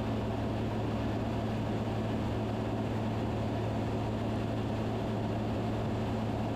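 Steady drone of a Van's RV-10's piston engine and propeller heard in the cabin during descent, with a constant low hum over even noise.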